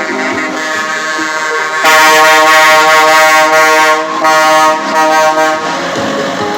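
Scania truck's air horn sounding: a long blast of about two seconds, then two short blasts, each on a steady chord. A quieter tone is heard before the first blast.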